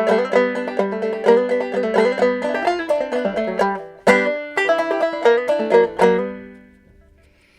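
Clawhammer-style five-string banjo in gEADE tuning, played in G: a quick, steady run of plucked notes with a short break and a hard strum about four seconds in, then the final notes ring out and fade near the end.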